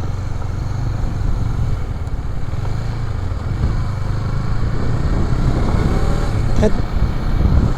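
Motorcycle engine running while riding, a steady low rumble that grows a little louder toward the end.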